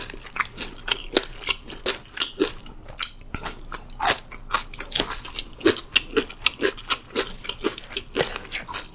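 Close-miked chewing of crispy fried chicken: a steady run of sharp crunches, several a second.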